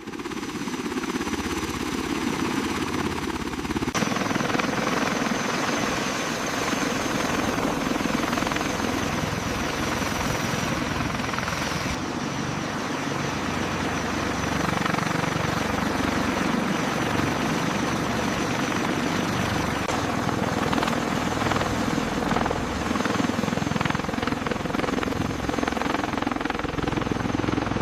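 A large helicopter running with its rotors turning: a dense, steady rotor and turbine noise with a high engine whine over a low, uneven rumble. The sound shifts abruptly about 4 and 12 seconds in.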